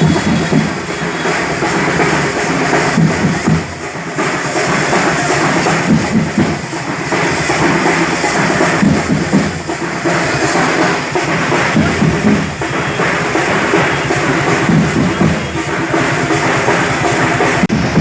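A festival drum troupe playing loud and steady, many drums beating a fast, dense rhythm with a bright, noisy high end above it.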